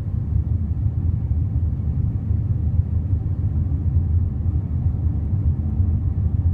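Steady low road and engine rumble inside the cabin of a moving Honda Elysion minivan.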